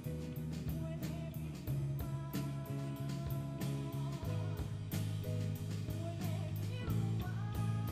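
Rock band playing live: guitar and bass over a steady drum beat.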